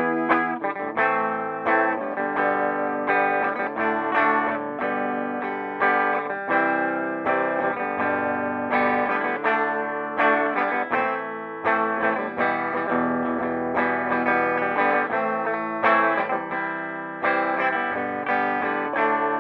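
Electric guitar played through a Peavey Bandit 112 combo amp's clean channel in classic mode, from the high-gain input: picked chords and single notes ringing on, a new note or chord struck about every half second.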